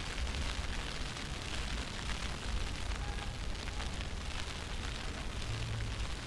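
Wind buffeting the microphone in a snowstorm: a steady low rumble under a rushing hiss.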